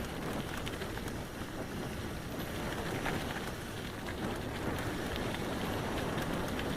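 Tyres rolling over a rough dirt and gravel track, a steady crunching hiss with scattered small ticks, mixed with wind noise on the microphone.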